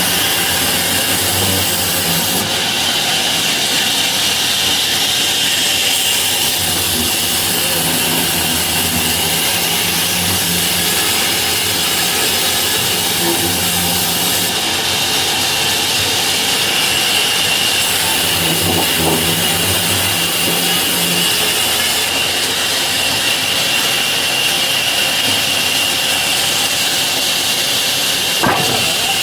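Sawmill saw running steadily, cutting through wood, with a constant high whine over a low drone that rises and falls. A sharp click comes near the end.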